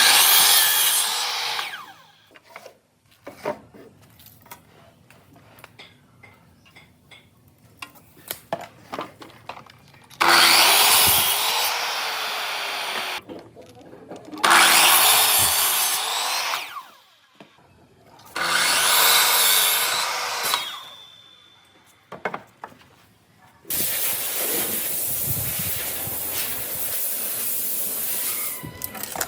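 A power tool working wood in five loud bursts of a few seconds each, its motor pitch wavering under the noise of the cut. Between the bursts come light knocks and taps of the wood being handled.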